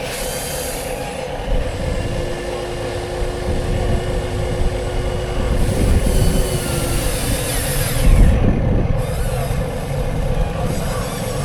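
Huina 1:14-scale RC construction machines at work: a steady mechanical hum with motor whine. A louder rumble comes about eight seconds in.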